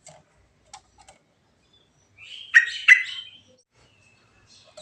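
Yellow-vented bulbul (trucuk) calling: a few short, faint chirps, then a loud burst of bright notes about halfway through, with its two strongest notes in quick succession.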